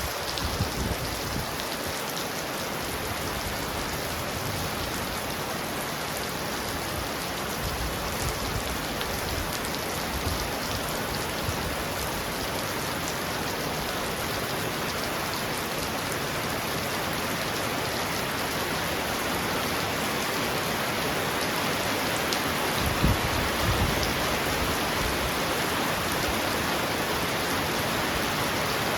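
Heavy rain pouring steadily on a roof as a dense, even hiss, with a brief low rumble about three-quarters of the way through.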